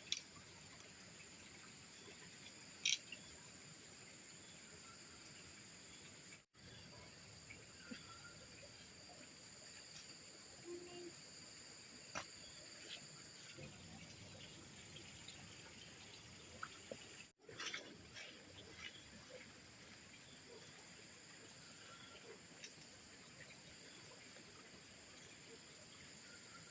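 Faint, steady chorus of insects singing in several high, unbroken tones, with a few scattered short clicks and knocks; about a third of the way in and again past the middle the sound drops out for an instant.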